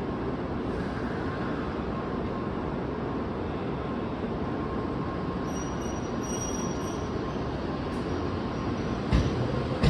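N700S Shinkansen train running: a steady rumble and rush of rail noise with a faint whine, and two sharp knocks near the end.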